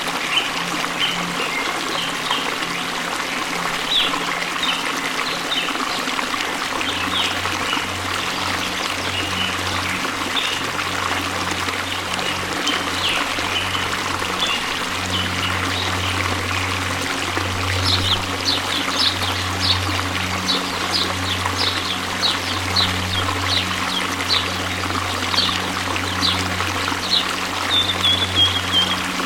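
Waterfall, water rushing and splashing steadily. Short high chirps run through it, coming thicker from about two-thirds of the way in.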